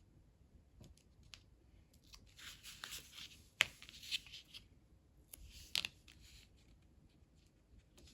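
Double-sided tape being pulled off and cut for a paper craft: two spells of dry crackling, each with a sharp snip or click.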